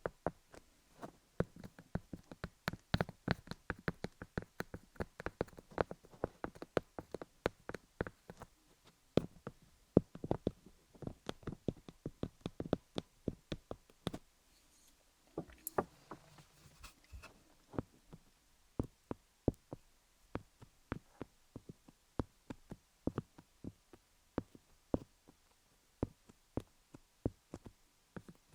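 Colored pencils tapping on a dummy-head microphone covered in cubic zirconia stones: a quick, irregular run of sharp clicks, several a second, thinning out in the second half.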